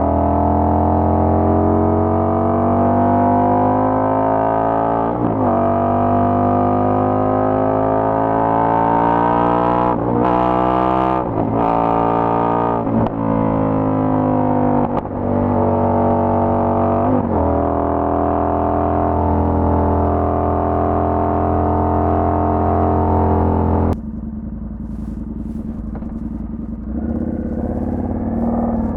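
Indian FTR 1200 V-twin with a Toce exhaust under way, its note rising in pitch through the gears with several gear changes, then holding steady at cruise. About five seconds before the end it turns suddenly quieter.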